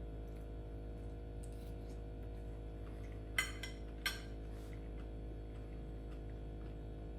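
Two sharp clinks of cutlery against a plate, a little under a second apart, over a steady low hum.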